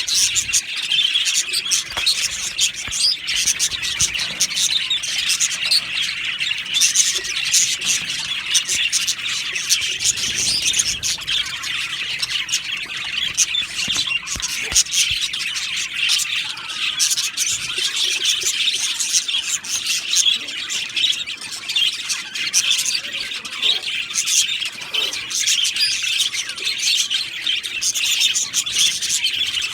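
A colony of budgerigars chattering and chirping without pause, many birds calling over one another in a dense, high-pitched babble.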